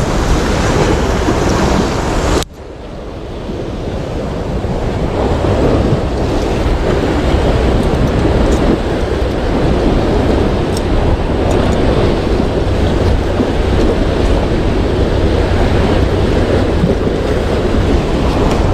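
Sea waves washing and surging, with wind buffeting the microphone. The sound drops off suddenly about two seconds in, then builds back up and runs on steadily.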